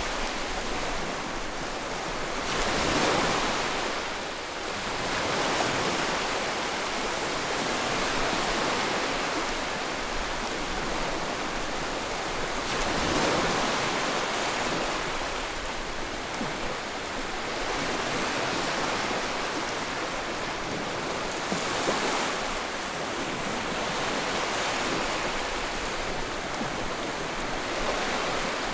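Ocean waves breaking and washing on the shore, a steady hiss of surf that swells as each wave comes in, every few seconds.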